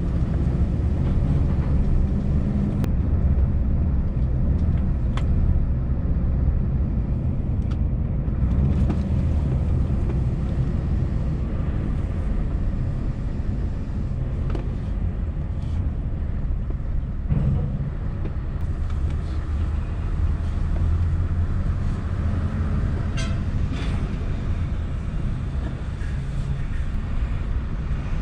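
Scania S650's V8 diesel truck engine running steadily as the lorry drives, a low even drone with a few faint clicks.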